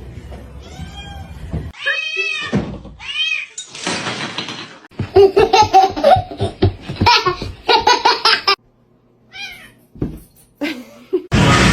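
Quick cuts between clips of house cats: cats meowing in short rising-and-falling calls, then a stretch of rapid, pulsing laughter, and a sudden loud burst of noise near the end.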